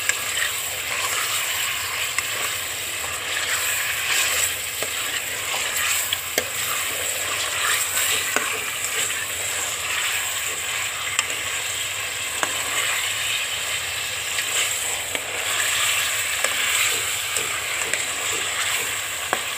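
Raw chicken pieces sizzling in hot oil in a steel pot while a metal ladle stirs them: a steady frying hiss with a few light clicks of the ladle against the pot.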